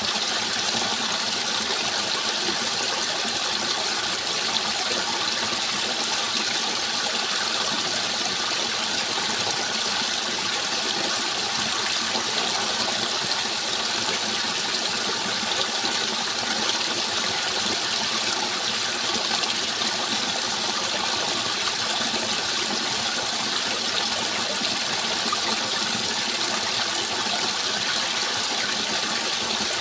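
Flowing water rushing steadily: an even, unbroken hiss with no single splashes standing out.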